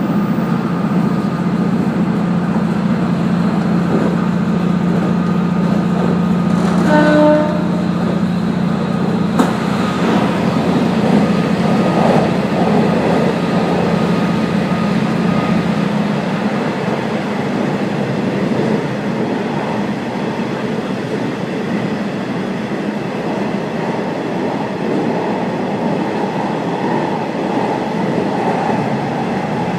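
KiHa 48 diesel railcar running along the line, heard from inside the car: a steady low engine drone over wheel and rail noise, easing somewhat about halfway through. A short horn blast sounds about seven seconds in.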